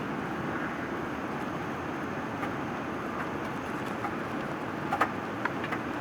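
Steady rushing cabin noise inside a Boeing 787-9 airliner with GE engines, close to landing, with a few short rattles or knocks from the cabin about five seconds in.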